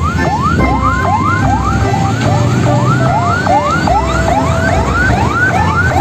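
Electronic siren whooping: quick rising sweeps repeating about two and a half times a second over a low steady rumble.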